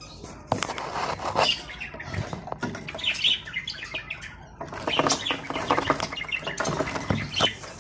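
Budgerigars chattering and chirping, with many quick clicks and taps mixed in.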